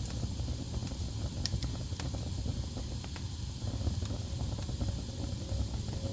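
Wood fire burning in a fireplace: a steady low rumble of flames with scattered crackles and sharp pops, the clearest about one and a half and two seconds in. A faint thin whistle comes in near the end.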